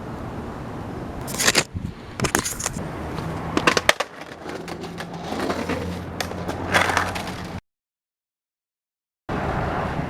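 Skateboard wheels rolling on pavement, with several sharp clacks of the board hitting the ground as tricks are tried. The sound cuts out completely for a moment near the end.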